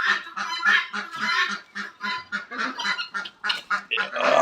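Farmyard fowl calling: a rapid run of short, harsh, honking calls, several a second, with a louder call near the end.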